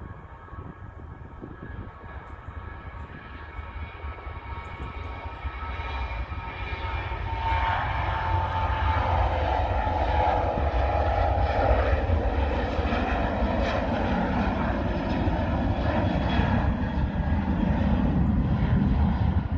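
Jet airliner passing close by, growing louder over several seconds and then staying loud, with high engine whine tones over a deep rumble; one whine tone glides slightly lower as it goes by. The sound cuts off suddenly at the end.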